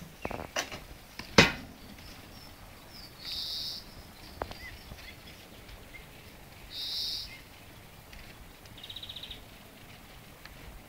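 Songbirds calling in a quiet garden: two short, high, buzzy calls several seconds apart, a quick rattling trill, and a few faint chirps. A few sharp clicks come in the first second and a half, the loudest about a second and a half in.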